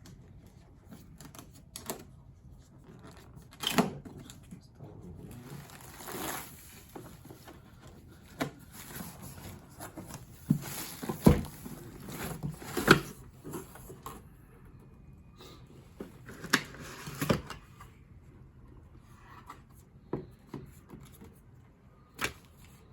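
Handling of packaging and vacuum parts during unboxing: rustling and irregular knocks and clacks, the sharpest knocks about 11 and 13 seconds in.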